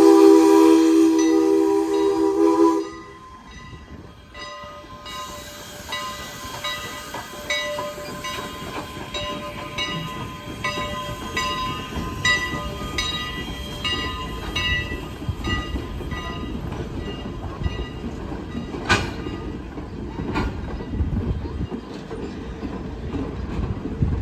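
A train horn sounds a loud multi-note chord and cuts off sharply about three seconds in. Then a train rolls past, its wheels clicking steadily over the rail joints, with a couple of sharper clanks near the end.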